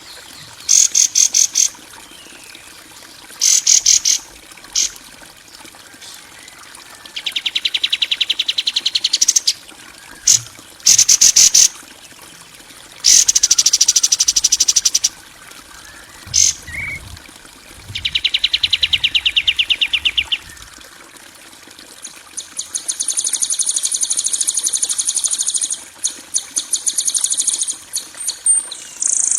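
A masteran recording of rough songbird calls: high, rapid trilled and buzzing chirp trains in bursts of about half a second to three seconds, separated by short gaps, with a longer buzzing stretch in the last quarter.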